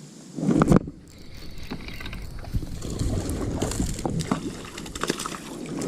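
Water and hull noises from a fishing kayak on a lake: low water wash with scattered small knocks against the hull. A brief loud knock or splash comes about half a second in.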